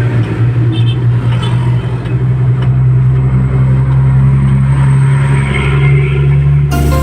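Truck engine running with a steady, deep drone at a constant pitch. Music cuts in near the end.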